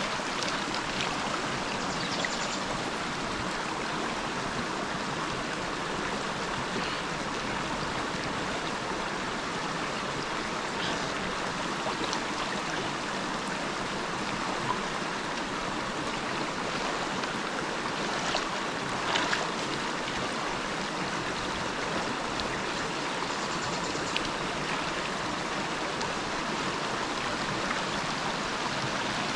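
Steady rushing of a river's flowing water, with a few faint clicks or knocks.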